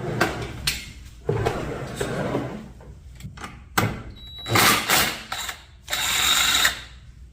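Hand tools working on metal as the front oil pump is unbolted from a Honda Gold Wing engine: irregular mechanical clicking, clinking and scraping, loudest about four and a half and six seconds in.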